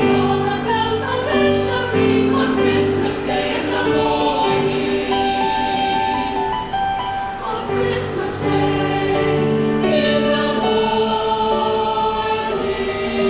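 Choir singing a Christmas piece, several voices holding long notes and moving together in chords.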